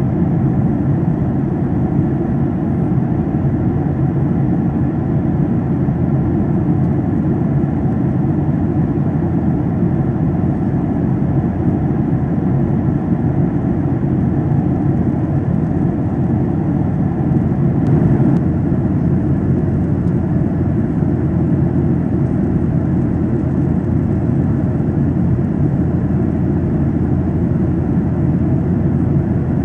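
Steady in-flight cabin noise of a Boeing 737-800: a low, even roar of its CFM56 jet engines and the airflow past the fuselage, heard from a main-cabin seat.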